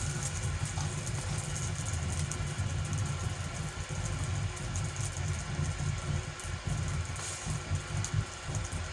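A steady low rumble with a faint hiss above it, starting abruptly.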